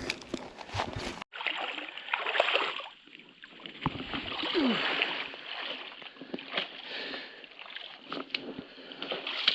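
Irregular splashing and sloshing of creek water. The sound changes abruptly about a second in.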